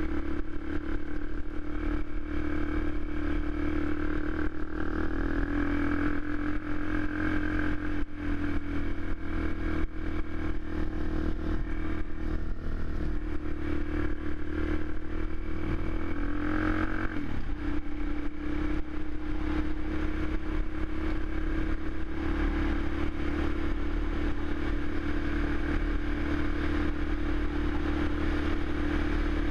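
Suzuki LTZ400 quad's single-cylinder four-stroke engine running steadily, its note lifting slightly about five seconds in and dipping briefly around seventeen seconds in before settling back to an even pitch.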